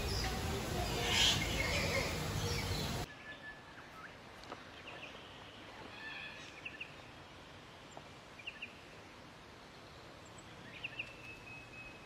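Red lories calling with harsh squawks, loud, then cut off abruptly about three seconds in. What follows is a quieter stretch of sparse, short high chirps, several in quick pairs, fitting a small songbird such as the splendid fairywren.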